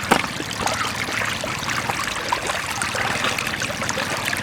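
Flowing floodwater running steadily, a stream-like trickle and pour, with one sharp knock just after the start.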